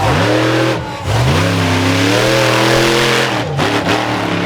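Monster truck engine revving: a quick rev at the start, then a second rev about a second in that is held high for about two seconds before dropping back.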